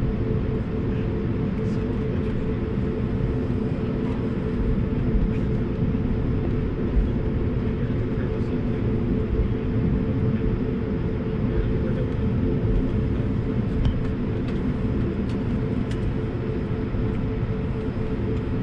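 Cabin noise of an Airbus A220-300 taxiing: the steady hum of its Pratt & Whitney PW1500G geared turbofans at low thrust over a deep, uneven rumble from the undercarriage rolling on the taxiway, with a few faint cabin ticks near the end.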